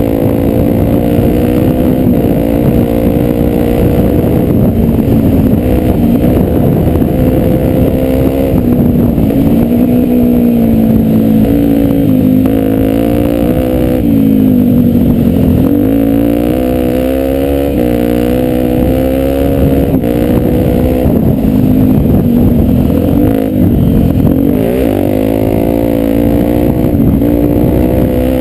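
Honda Tornado 250's single-cylinder four-stroke engine running hard under a trail ride, heard close up. Its pitch rises and falls with the throttle, and it drops sharply and climbs again twice, about halfway through and again a few seconds later.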